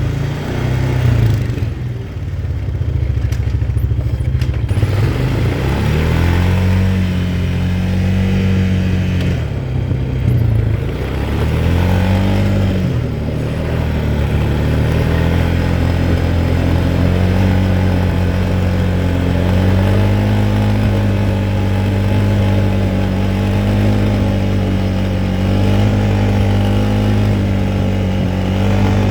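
Quad bike engine running as it is ridden, the revs rising and falling several times in the first half, then holding fairly steady.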